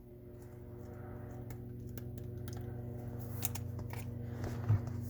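Light scattered clicks and taps of cardboard basketball cards being flipped through by hand, over a steady low hum.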